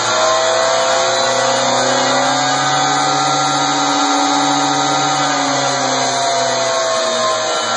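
Radio-controlled monster truck's motor whining as it drives, the pitch climbing slowly over the first couple of seconds, holding, then falling off near the end, over steady rushing noise.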